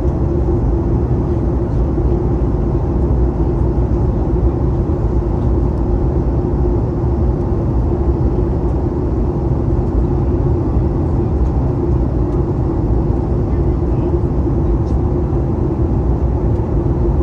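Steady cabin noise inside a Boeing 737 MAX 8 airliner: a deep engine and airflow rumble with a constant hum running through it.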